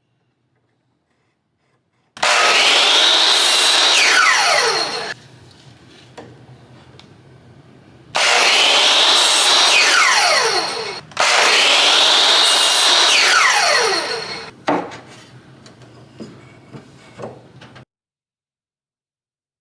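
An electric power tool on wood, run three times for about three seconds each. Each time its motor whine falls away as it spins down after release. A few light knocks follow near the end.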